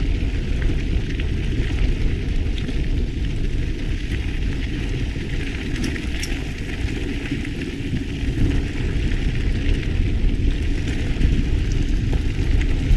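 Mountain bike riding down a trail: wind rumbling on the camera's microphone, with the steady crackle of the tyres rolling over the ground and a few faint clicks.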